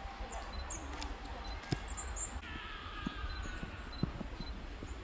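Small birds giving short, high, thin chirps, over the soft crunch of footsteps in snow and a steady low rumble.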